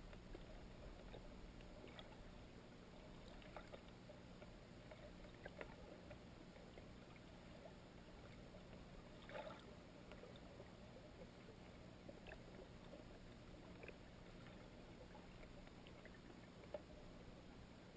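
Near silence: a faint steady low hum and hiss with scattered small clicks, and a slightly louder crackle about nine seconds in.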